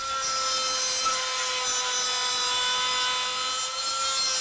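Small high-speed rotary cutting tool whining at a steady pitch as it grinds through the seized nut on the steering link joint.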